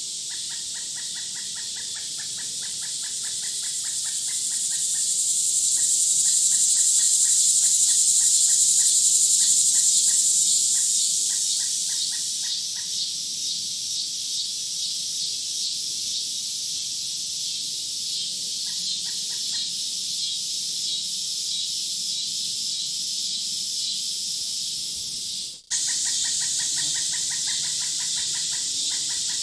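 Woodland insect chorus: a dense high buzzing that swells louder for several seconds and then eases, over a fast, even pulsing trill. It drops out for a split second near the end.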